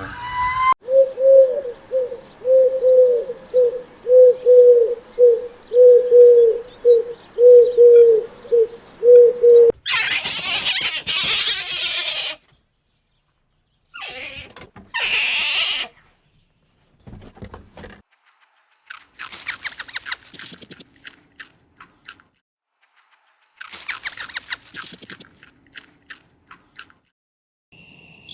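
A run of different animal calls: first a short low call repeated about one and a half times a second for some nine seconds, then several shorter, harsher noisy calls and raspy clicking sounds with gaps between them.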